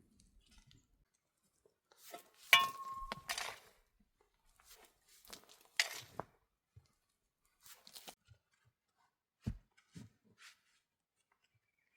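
Scattered knocks and clinks of objects being handled. The loudest comes about two and a half seconds in, with a brief ringing note.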